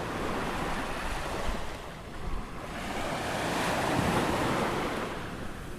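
Ocean waves breaking and washing up on a sandy beach as the tide comes in, one wave building about halfway through and easing off near the end. Wind on the microphone.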